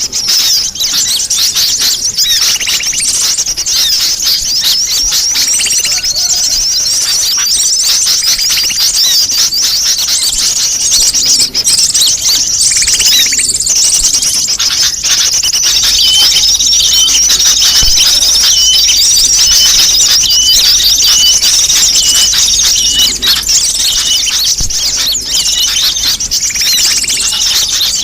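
Dense, continuous high-pitched chirping and twittering of many sunbirds calling at once. This is a bird-lure recording of a noisy flock, used to attract small birds.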